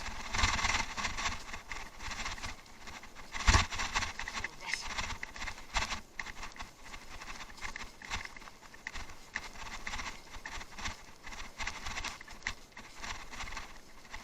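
Bicycle riding over rough off-road ground: the tyres crunching and the bike rattling and knocking irregularly, with one hard jolt about three and a half seconds in.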